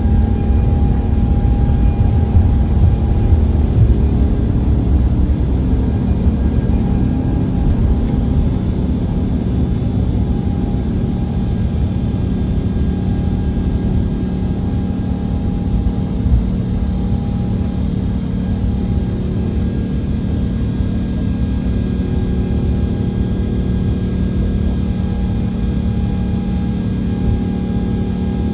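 Jet airliner's engines at high takeoff thrust heard from inside the cabin: a loud, steady low rumble with several steady whining tones over it, easing slightly after the first few seconds.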